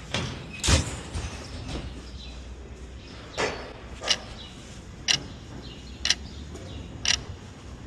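A loud thump about a second in, then sharp clicks evenly spaced about once a second over a low steady hum.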